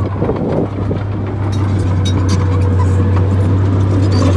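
Bulldozer's diesel engine running steadily, with scattered metallic clanks and knocks from the machine working, growing slightly louder.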